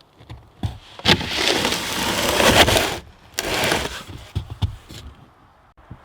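Wooden beehive parts being set back in place: wood sliding and scraping on wood, one long scrape of about two seconds and a shorter one after it, with several sharp knocks.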